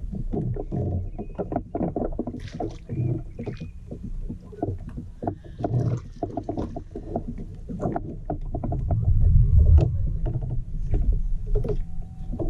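Water sloshing and knocking against a fishing kayak's hull, a run of short irregular knocks and splashes. A low rumble swells about nine seconds in.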